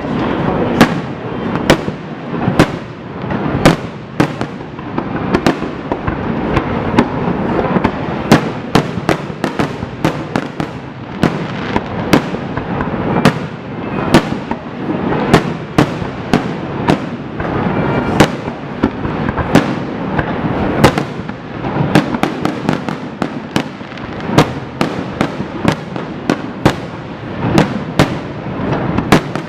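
Fireworks display: a rapid, continuous run of loud shell bursts, often two or three bangs a second, over steady crackling.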